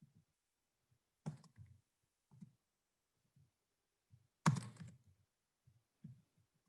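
A few faint, scattered clicks and soft thumps with silence between, the loudest a sharp click about four and a half seconds in.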